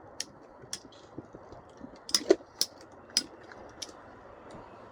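Storm Pegasus and Burn Fire Blaze Beyblade tops clashing as they spin, about eight sharp clicks at uneven intervals with a tight cluster a little past two seconds in, over a steady low hiss.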